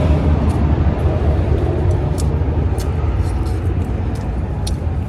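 Strong wind buffeting the microphone: a steady, heavy low rumble with a few faint clicks over it.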